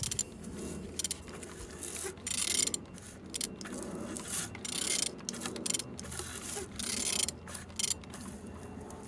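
Engine being turned over by hand, with irregular mechanical clicks and rattles and several short bursts of hiss; it turns freely.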